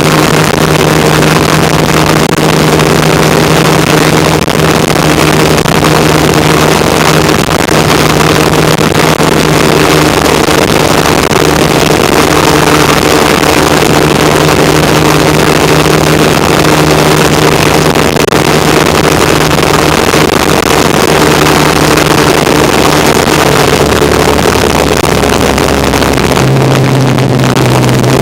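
1975 Kawasaki KZ400 parallel-twin engine running steadily while the motorcycle is ridden, with a loud rush of wind and road noise over it. The engine note changes near the end.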